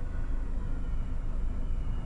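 Fast freight train cars rolling past close by: a steady low rumble of wheels on rail, muffled through a closed car window.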